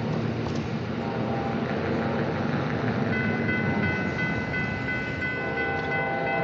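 Approaching Amtrak passenger train rumbling toward a grade crossing. From about three seconds in, a steady multi-note horn chord starts sounding.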